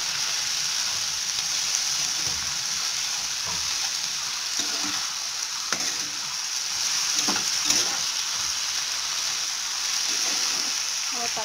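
Malabar spinach and potato pieces sizzling in a non-stick frying pan as they are stirred with a spatula, with a few short scrapes of the spatula against the pan about two thirds of the way through.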